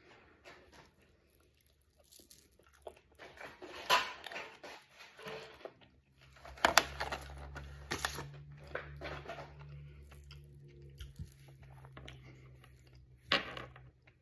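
Chewing and crunching on crispy fried tater tots, mixed with rustling and sharp clicks of a plastic takeout container. A steady low hum comes in partway through.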